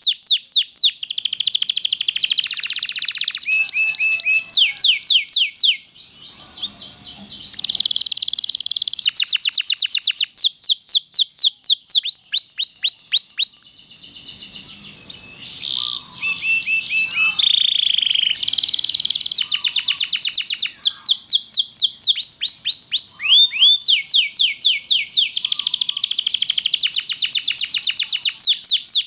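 Domestic canary singing a long song of fast repeated trilled notes and rolls, with short breaks about six and fourteen seconds in.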